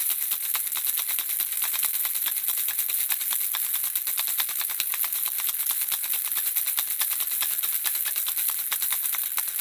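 Handheld baby rattle shaken continuously, the small objects inside clicking in a dense, steady stream of rapid, bright ticks.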